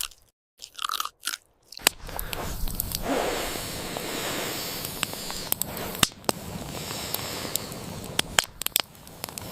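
Crunchy biting and chewing: a few separate bites, then continuous crackly crunching with sharp clicks from about two seconds in, stopping shortly before the end.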